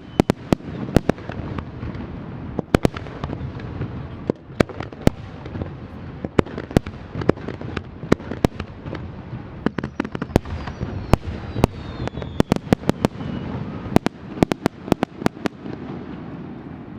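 Fireworks display: dozens of sharp firework bursts cracking in quick, irregular succession over a continuous low rumble, with a few faint whistles falling in pitch. The bursts thin out near the end.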